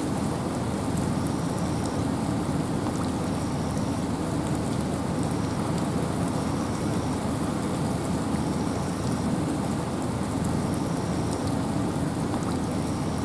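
Steady rain with wind: an even, unbroken hiss, heaviest in the low range.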